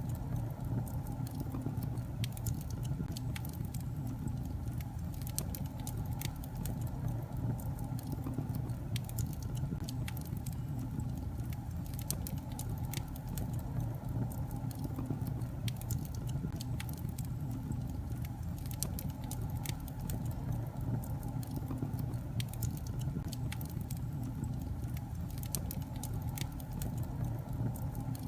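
Wood fire burning in a fireplace, crackling steadily with many small sharp pops over a low rumble of the flames.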